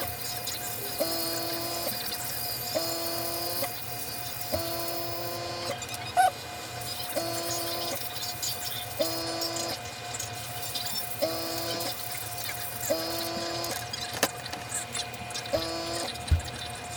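A small machine running, with a whining note that repeats about every two seconds over a steady hum.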